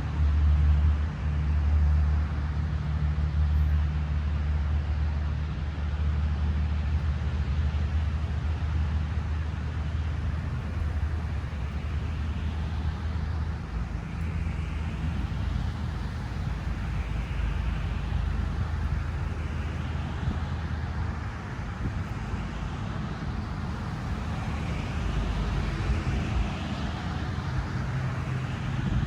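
A vehicle engine running steadily with a low hum that fades about two-thirds of the way through. Repeated short rising chirps come in over it in the second half.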